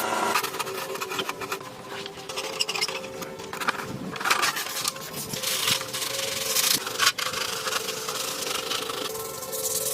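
Irregular rubbing and scraping strokes against a surface, uneven in length and loudness.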